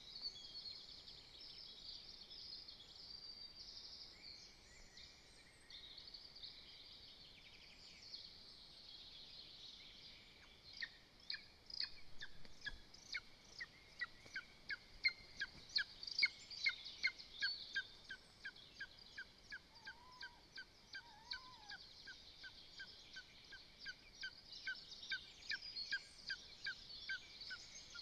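Lesser spotted eagle calling at the nest: a long series of short, sharp yelping notes, about two or three a second, starting about a third of the way in. A steady chorus of small songbirds runs underneath.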